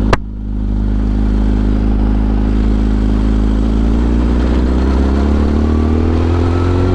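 Yamaha R1 inline-four sportbike engine running, with a sharp click right at the start; the engine note rises slowly over the last few seconds.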